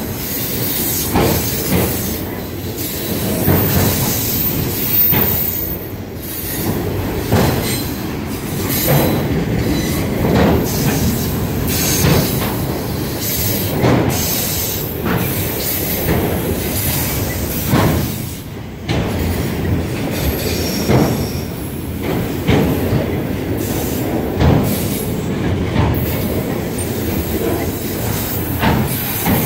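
Autorack freight cars rolling past: steady rumble of steel wheels on the rails, with repeated clacks roughly once a second as the wheels pass over the track.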